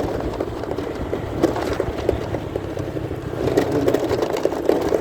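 Muffled motorcycle ride heard from a phone in a pocket: a low rumble of engine and road, with fabric rubbing and scraping against the microphone.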